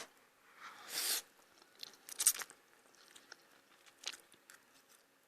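Eating noises of a person eating pancit canton noodles up close: a few short, sharp mouth sounds spaced a second or two apart, with faint small clicks between.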